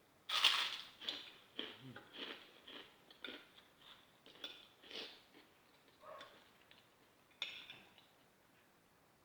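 Close-miked chewing of crisp, crunchy food: one sharp crunching bite about half a second in, then a run of irregular crunching chews that thin out towards the end.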